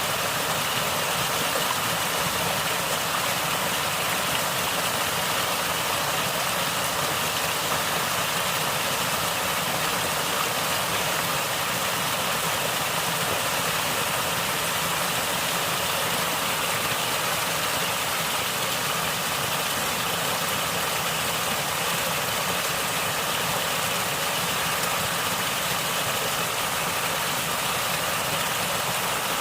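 Natural water flowing and gurgling: a steady, even wash of water noise that does not change.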